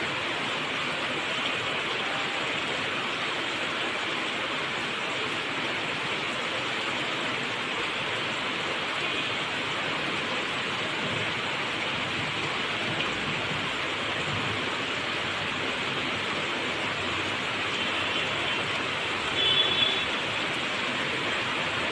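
Steady rain falling, an even hiss with no let-up. About nineteen seconds in, a brief louder higher-pitched sound rises over it.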